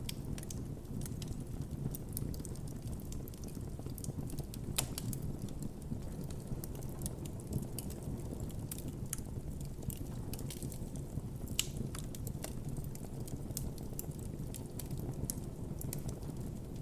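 Wood campfire crackling, with many scattered sharp pops over a steady low rumble; two louder pops come about 5 and 12 seconds in.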